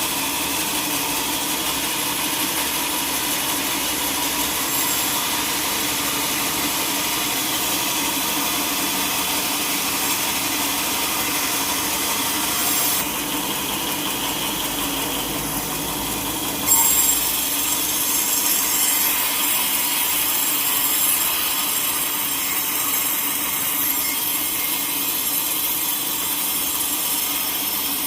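Sawmill saw cutting through a teak log, a steady running hiss and whine. The sound changes about 13 seconds in and turns louder with a sudden jump near 17 seconds.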